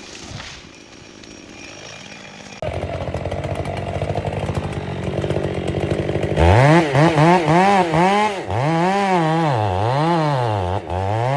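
Chainsaw engine running: at a lower level at first, then louder and steady from about two and a half seconds in. From about six seconds in it is revved again and again, its pitch swinging up and down with the throttle.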